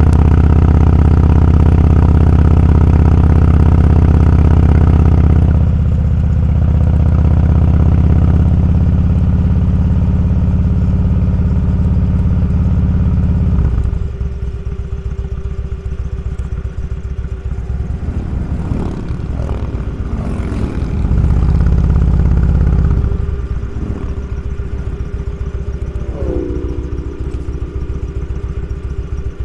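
Motorcycle engine running on the road, strong and steady at first, easing off about five seconds in and again around halfway, then picking up briefly about two-thirds of the way through.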